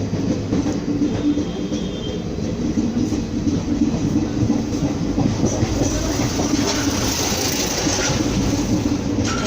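Indian Railways passenger train running at speed, heard from inside the coach: a steady rumble of wheels on rails with a faint clickety-clack, and a louder hiss for a couple of seconds after the middle.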